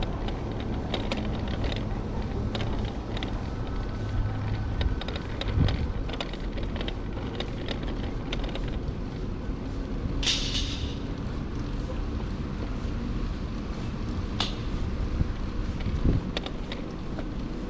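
Steady low rumble of wind and road noise while cycling, with scattered light clicks and a short hiss about ten seconds in.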